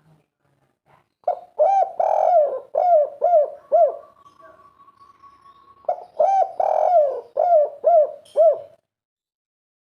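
Spotted dove cooing in the 'kuk 3' song style: two quick runs of six or seven repeated coos each, with a pause of about two seconds between them.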